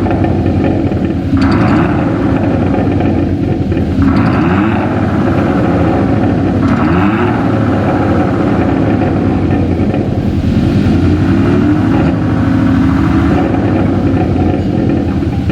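Exhaust note of a Hyundai Tucson fitted with Veloster N Performance mufflers and a JSR Xhaust active sound booster, revved in short blips every few seconds over a steady idle.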